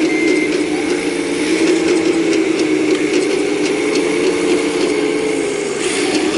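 Excavator at work: a steady mechanical drone that wavers slightly in pitch, with frequent small clanks and clicks over it.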